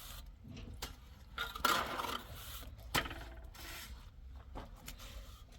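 Hand tools scraping and knocking on building material, with a longer scrape about a second and a half in and a sharp knock around three seconds.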